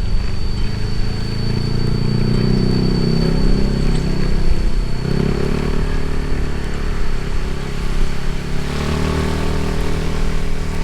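Motorcycle engine running while under way, its pitch shifting up and down with the throttle. A rushing noise grows louder near the end.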